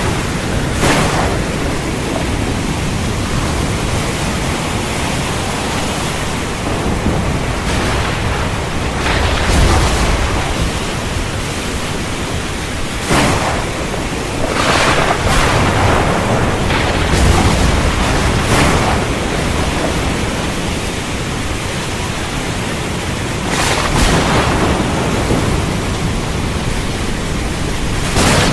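Heavy rain falling steadily through a thunderstorm. About ten sharp thunder cracks cut through it, several trailing off into a low rumble; most come in the middle stretch and one comes near the end.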